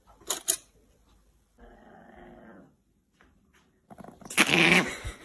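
A dog growling, with two short sharp sounds near the start and a louder, longer outburst about four seconds in.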